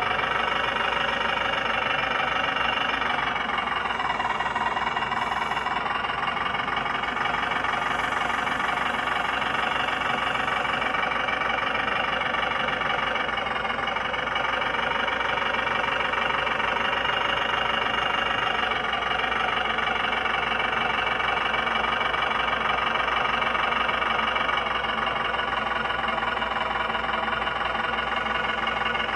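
Diesel-style engine idling sound from a 1/14-scale RC semi truck's sound unit, steady throughout with a few slight rises and falls in pitch.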